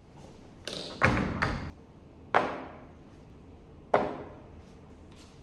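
A series of knocks and thumps, like objects being handled and set down: three in quick succession about a second in, then single ones at about two and a half and four seconds, each dying away with a short ring.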